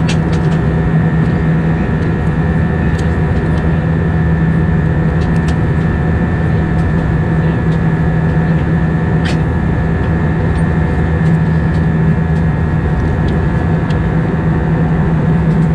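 Airbus A320's jet engines heard from inside the passenger cabin during the climb: a steady, loud drone with a strong low hum and a thin high tone, with a few faint light clicks.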